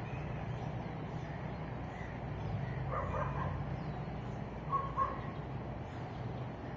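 A crow cawing a few short times, once about three seconds in and twice in quick succession near five seconds, over a steady low hum of distant traffic.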